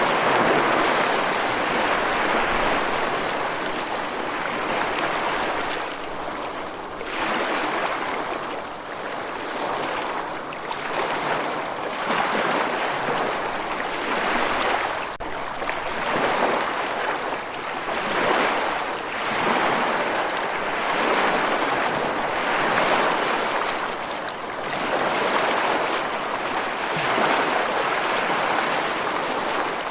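Running water rushing steadily, swelling and easing every few seconds.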